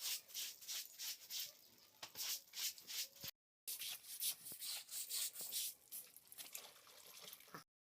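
Clothes being scrubbed by hand in soapy water, with rubbing strokes at about three a second. The sound breaks off twice for a moment.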